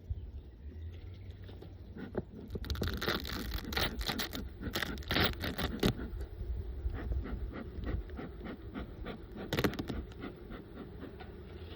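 Metal hive tool scraping and prying at a wooden beehive, a run of scrapes and cracks about three to six seconds in and another brief run near ten seconds.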